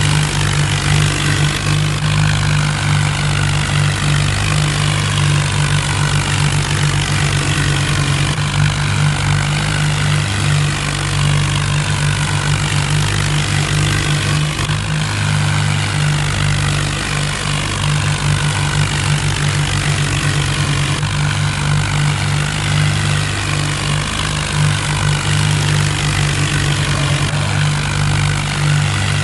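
Diesel tractor engines running steadily and loudly, a continuous low engine note with no pauses.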